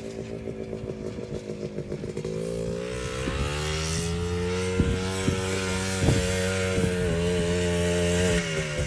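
Quad bike (four-wheeler) engine running. It revs up about two seconds in, holds steady at higher revs with a few brief knocks, and eases off near the end.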